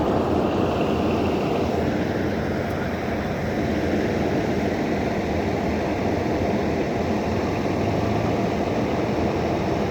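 Steady wind buffeting the phone's microphone: a continuous low rumble with a hiss over it.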